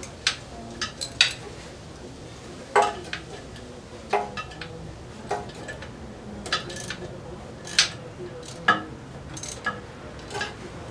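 Irregular metallic clinks and taps of hand tools and nuts against metal, about a dozen in all, as nuts are put onto torque converter bolts during engine-to-transmission assembly.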